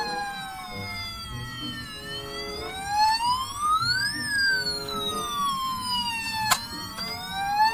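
A toy fire truck's electronic wailing siren, its pitch sweeping slowly down, then up, then down again over a few seconds each way. A sharp click comes about six and a half seconds in.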